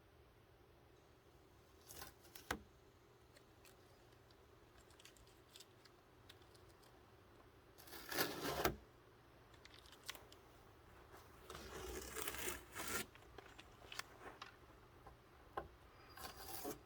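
Intermittent tearing and rubbing handling noises: a few short bursts, a louder one about halfway through and a longer run a little later, over a faint background.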